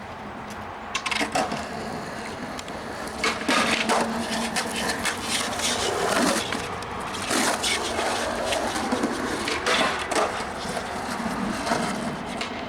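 Skateboard riding a run: wheels rolling and scraping, with a string of sharp clacks and impacts as the board pops, hits and lands, several seconds apart.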